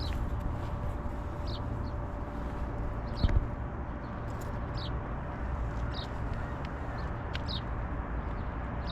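Birds chirping in short, high calls about once a second over a steady low outdoor rumble, with one low thump about three seconds in.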